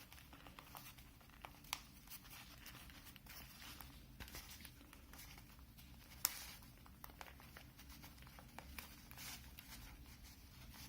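Faint rustling and crinkling of a replacement ear pad being stretched and pressed onto a headphone ear cup's rim, with scattered small clicks, the sharpest about six seconds in.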